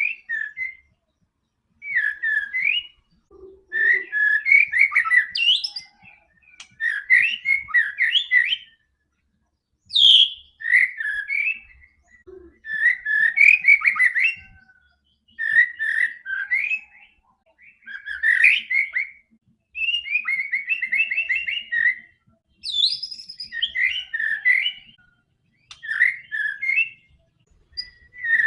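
White-rumped shama singing vigorously: a run of varied, quick whistled phrases, each lasting one to two seconds, with short silent gaps between them.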